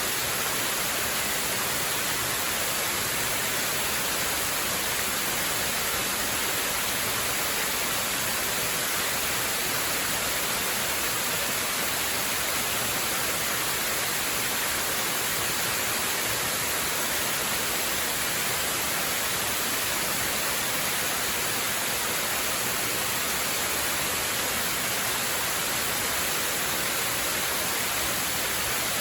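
Waterfall: a steady, unbroken rush of falling water, hiss-like and strongest in the high range.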